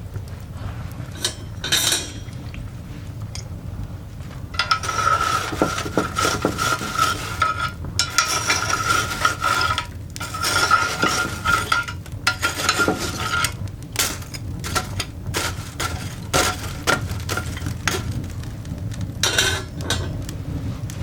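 Metal fire irons scraping and clinking against the coals and the cast iron dog grate as the coal fire is stirred. The dense scraping with a ringing metallic note lasts from about four seconds in to about thirteen seconds, and scattered clinks and sharp knocks come before and after it.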